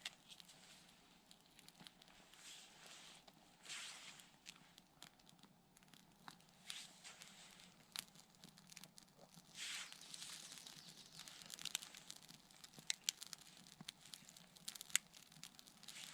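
Faint rustling, crinkling and tearing of dry birch bark and kindling twigs, with irregular sharp snaps and crackles that come more often in the second half.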